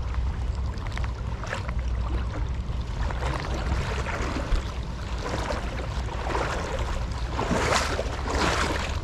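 Creek water running and splashing, with a steady low rumble on the microphone and a couple of louder water washes near the end.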